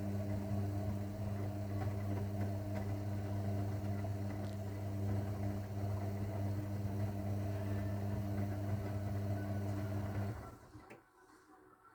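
Zanussi washing machine humming steadily, a low even electric hum, which stops about ten seconds in.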